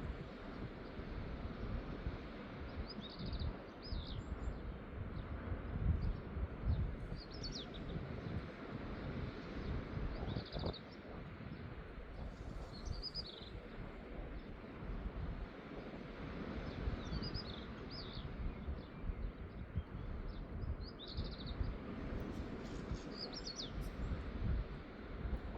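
Small birds chirping in short, high calls every second or two over a steady low rushing background.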